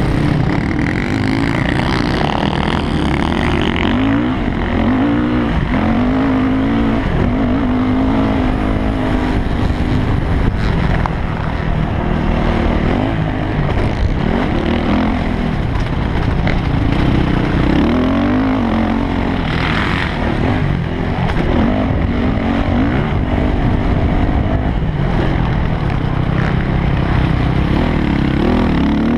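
Yamaha YZ450F motocross bike's single-cylinder four-stroke engine being ridden hard. The pitch climbs and drops again and again as the rider opens and closes the throttle and shifts.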